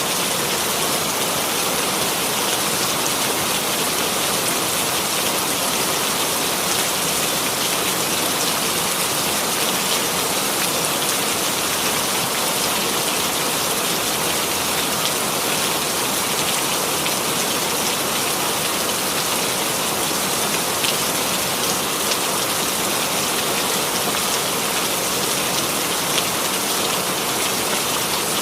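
Steady rainfall: an even hiss of rain with scattered drop ticks on a surface, unchanging throughout.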